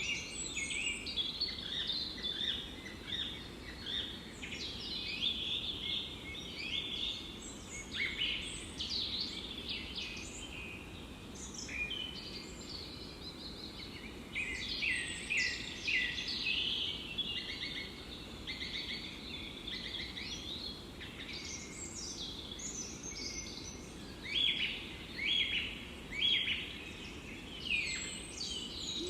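Several birds singing and chirping in a forest, many short overlapping calls and song phrases, over a steady low background hiss; a run of quick repeated notes comes near the end.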